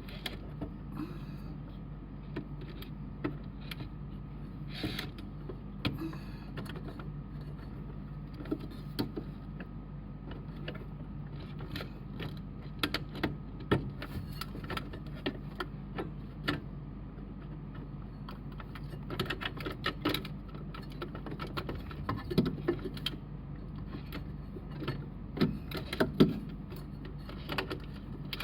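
Irregular clicks, taps and small clatters of hard parts and tools being handled, busier in the second half, over a steady low hum.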